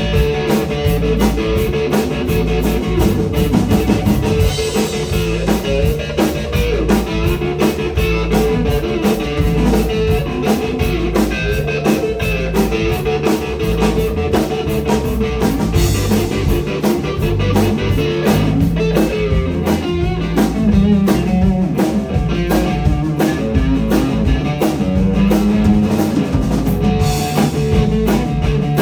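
Blues-rock band playing live: guitar with held and bending notes over a drum kit and a bass line, with no singing.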